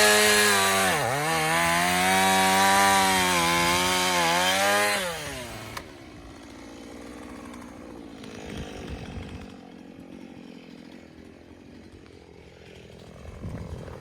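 Two-stroke gas chainsaw running at high revs, its pitch dipping sharply under load about a second in and recovering, then winding down and cutting off about five seconds in.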